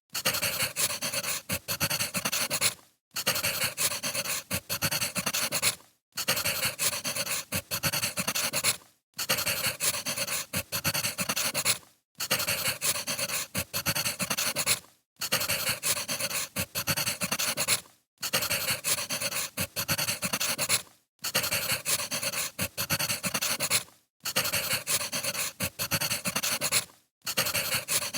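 Wood fire crackling with many small pops and snaps, a short recording looped about every three seconds with a brief drop-out between repeats.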